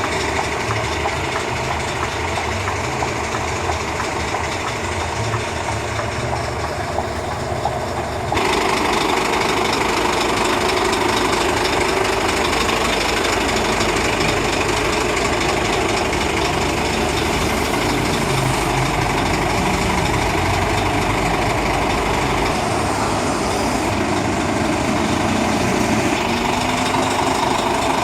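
Scania P460 dump truck's diesel engine running steadily, getting louder about eight seconds in.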